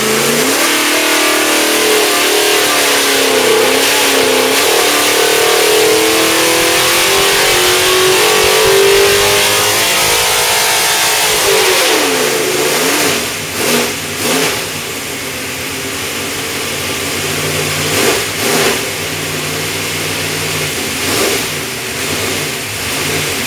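A 434 cubic inch small block Chevy V8 racing engine on an engine dyno, its pitch climbing steadily under load for about ten seconds in a full pull. It then drops back, followed by several short revs up and down.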